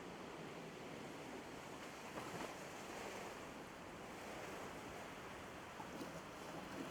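Ocean waves washing on the shore in a steady, even hiss.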